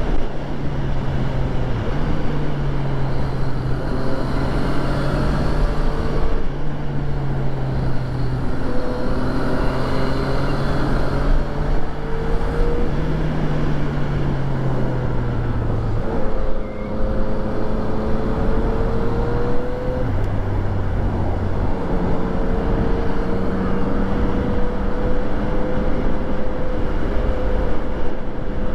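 2014 Yamaha FZ-09's 847 cc inline three-cylinder engine running under way, its note holding and then stepping up and down with the throttle and gear changes. The pitch drops suddenly about halfway through, sits lower for a few seconds, then rises again and holds steady, over a constant rush of road and wind noise.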